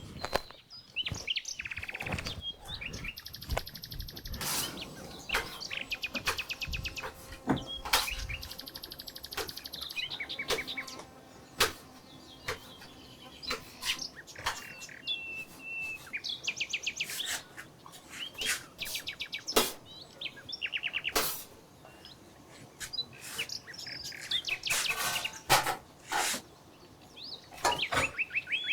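Small birds chirping and singing rapid trills, on and off. Now and then there are sharp knocks or clicks, with a few duller low thuds in the first several seconds.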